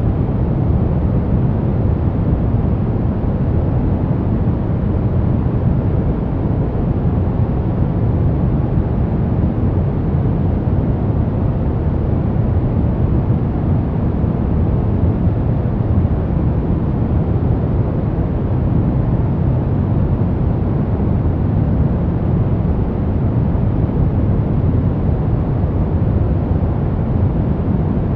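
Steady sleep-aid white noise: an even, unbroken hiss weighted toward the low end, giving a deep rushing sound with no changes.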